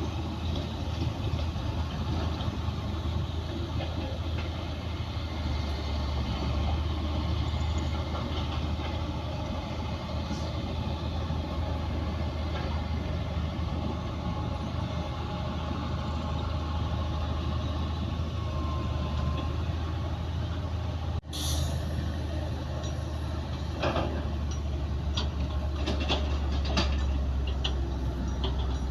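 Heavy diesel earthmoving machinery running steadily with a low engine drone. The sound briefly cuts out about two-thirds of the way through, and scattered metallic knocks and clanks follow near the end.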